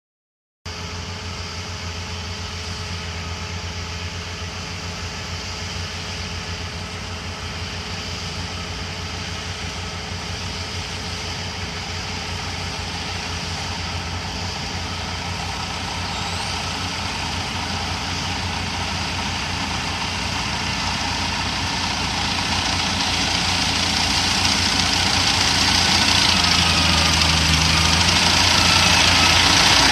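Kubota KAR90 six-row rice combine harvester running with a steady engine hum that grows gradually louder over the whole stretch.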